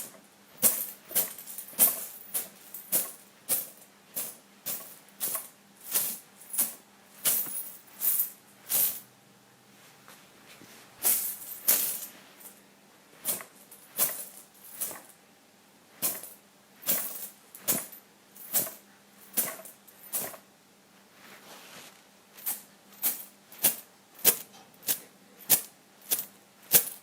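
Coins clinking and jingling in a long series of short, sharp strokes, one or two a second, with two brief pauses.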